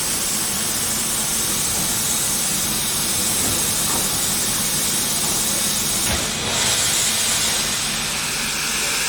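Steam locomotive venting steam: a loud, steady hiss that grows stronger about six seconds in.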